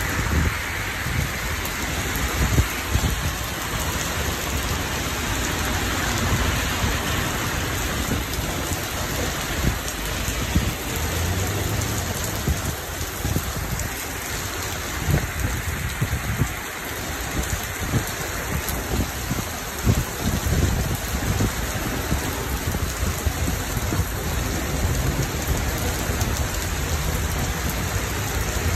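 Heavy rain pouring steadily onto leaves and pavement, with a low, uneven rumble underneath.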